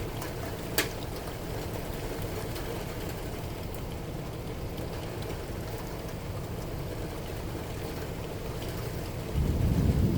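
Steady rain falling, with one sharp tap about a second in. Near the end a low thunder rumble sets in and grows louder.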